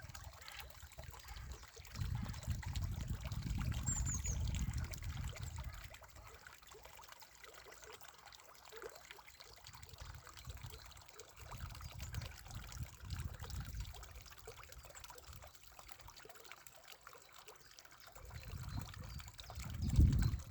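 Spring water trickling and splashing steadily out of the ground. A low rumble swells up and fades away three times.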